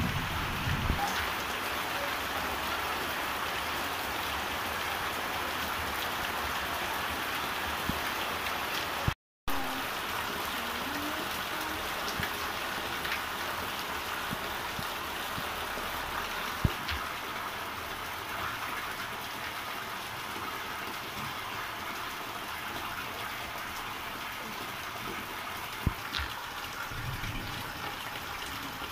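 Heavy rain falling steadily, an even hiss with an occasional sharp drip or tap. The sound cuts out for an instant about nine seconds in.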